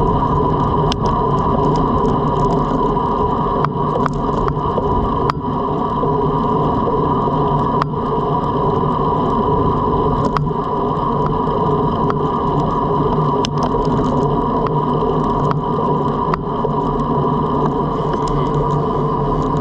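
Road bike riding at speed: a steady hum of tyres on the road with wind on the microphone, and scattered sharp clicks.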